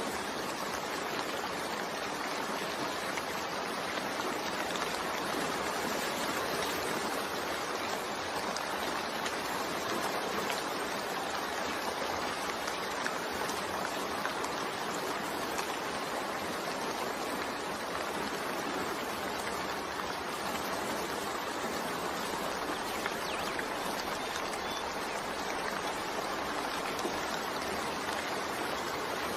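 Steady, gentle rain falling, an even hiss of drops without pauses or distinct events.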